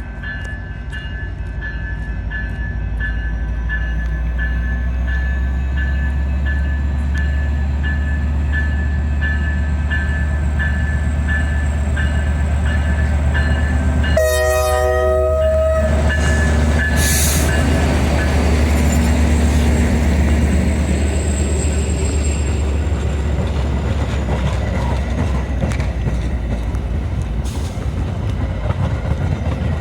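A train rumbling up and passing close by, growing louder over the first few seconds and then holding steady. A grade-crossing bell dings steadily through the first half, and the locomotive's horn gives one short blast about 14 seconds in.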